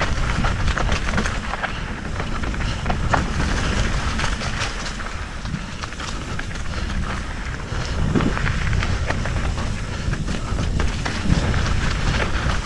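Mountain bike rolling down a dusty dirt trail: tyres running over dirt and loose stones, with the bike rattling and clicking over bumps above a steady low rumble.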